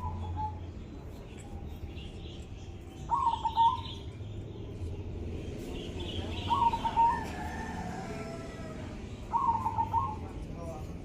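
Zebra dove (perkutut) cooing: three short rolling phrases, about three seconds apart. Faint chirps of other small birds sound in the background.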